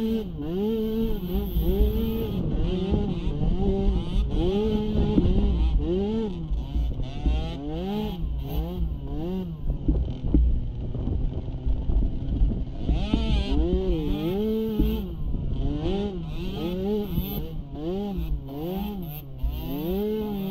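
Small youth ATV engine revving up and dropping back again and again, about once a second, as the throttle is opened and closed. It holds steadier and lower for a few seconds around the middle, with low buffeting noise underneath.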